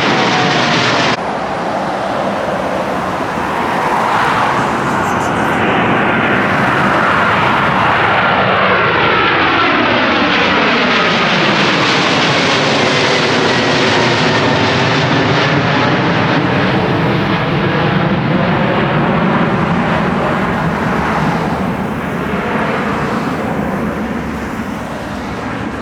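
Jet engines of a heavy widebody airliner climbing out low overhead just after takeoff: loud, steady engine noise with tones that sweep down and back up as the aircraft passes, fading slightly near the end. The hiss drops abruptly about a second in.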